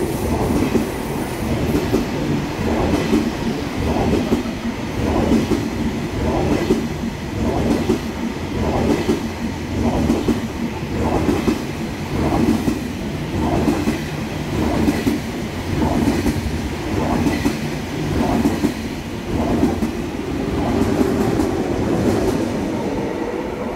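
KTX high-speed train rolling past close to the platform: a steady rumble with the wheels clattering over the rail joints in an even rhythm, about one clatter every three-quarters of a second.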